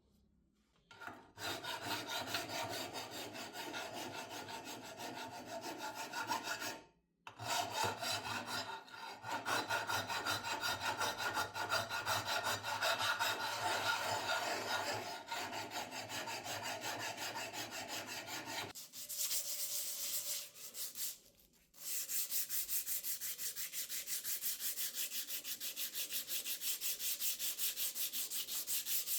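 Abrasive rubbing on the rusty cast-iron body of a charcoal clothes iron as rust is taken off, in several long runs with short stops. The sound turns brighter and hissier after about two-thirds of the way through.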